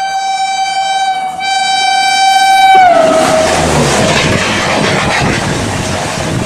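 Diesel locomotive horn held in one long blast, briefly broken about a second in. Around three seconds in it drops in pitch as the locomotive passes close by. The loud rumble and clatter of the passenger coaches rolling past follows.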